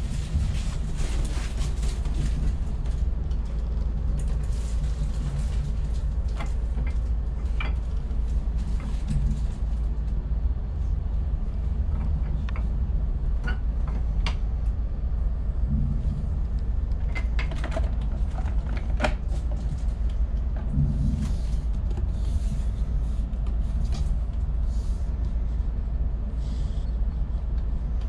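Steady low rumble of a DB ICE 1 high-speed train running along the track, heard from inside a coach, with occasional light clicks and rattles.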